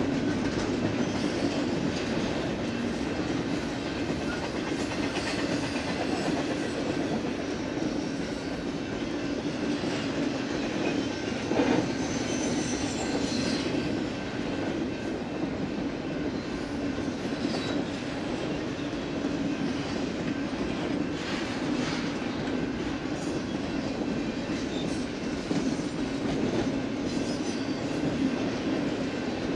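Double-stack container train's well cars rolling past at steady speed: a constant low rumble with wheels clicking over the rail joints. One sharp metallic clank stands out a little before halfway through.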